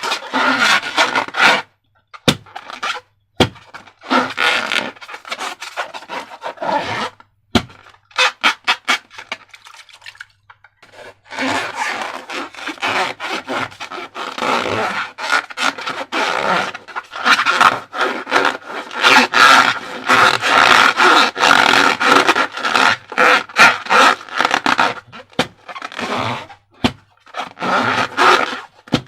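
Rubber balloons and slime being handled: squeaky rubbing and scraping of the balloon rubber, with many sticky clicks and crackles, in long stretches broken by a few short pauses.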